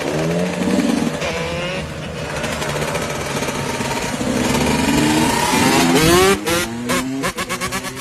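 Motorcycle engines revving, the pitch rising and falling repeatedly as the throttle is worked; near the end a fast regular pulsing sets in.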